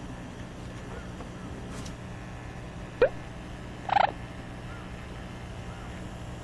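Amazon parrot giving two short calls over a steady low hum: a quick rising squeak about three seconds in, then a louder, harsher squawk about a second later.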